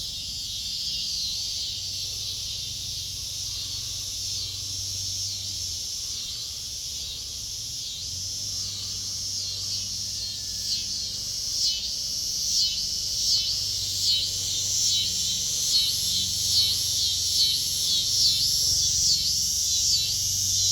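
Cicadas singing: a steady high buzz that, about halfway through, turns into a pulsing rhythm of roughly one swell a second and grows louder toward the end.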